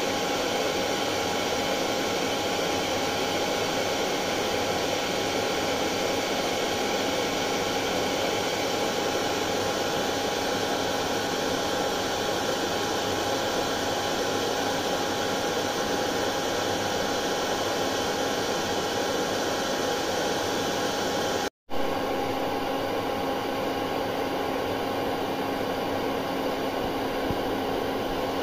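Electric hair dryer running steadily: an even rushing whir of air with a constant hum tone over it. The sound drops out for a split second about two-thirds of the way through, then carries on with a slightly changed hum.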